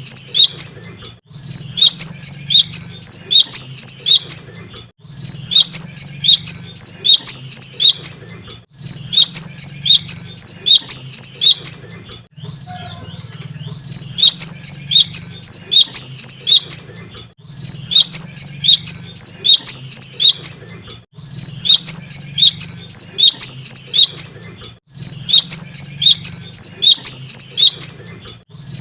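Cinereous tit (gelatik batu) singing loudly in repeated bouts of rapid, high, chirped notes, each bout about two and a half seconds long with short pauses between them.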